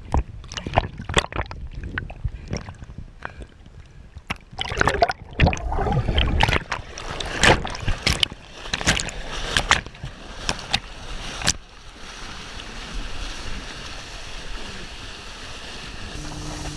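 Water splashing and sloshing around a chest-mounted action camera on a wakeboarder in the lake, with many irregular sharp splashes and knocks for most of the stretch, giving way to a steadier rush of water and wind about three-quarters through. A low steady hum, typical of the tow boat's motor, comes in at the very end.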